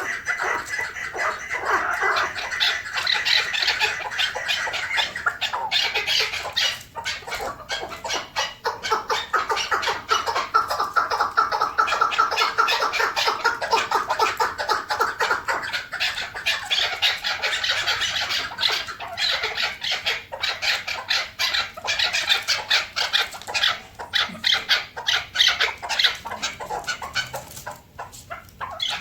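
Chukar partridge calling: a long run of rapid clucking notes, with a brief lull about seven seconds in.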